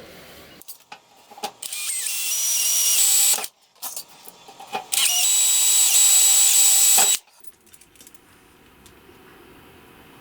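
Power tool, most likely the homemade belt grinder, running in two short bursts of about two seconds each: a loud high hiss with a steady high whine, starting and stopping abruptly.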